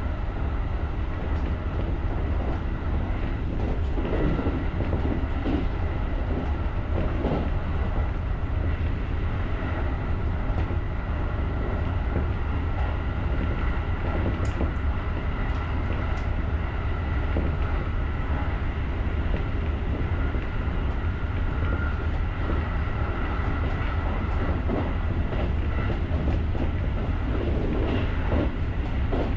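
Electric commuter train running along the track: a steady low rumble with a few steady high tones and bouts of clatter from the wheels over the rails.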